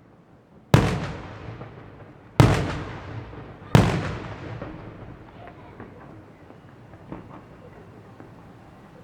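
Fireworks going off: three loud bangs, each trailing off in a long fading rumble, the second and third coming about a second and a half apart, followed by a few faint scattered pops.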